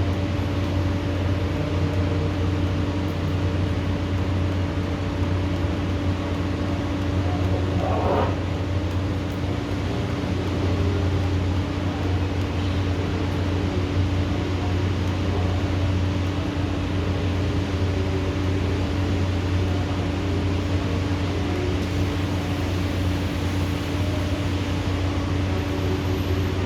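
Steady mechanical hum over an even hiss, unchanging throughout, with one brief sound about eight seconds in.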